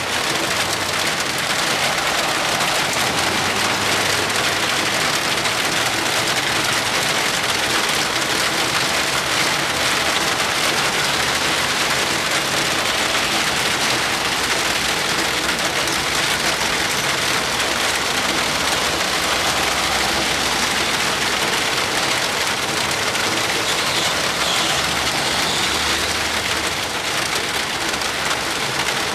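Heavy rain falling steadily, a dense, even hiss that holds at the same level throughout.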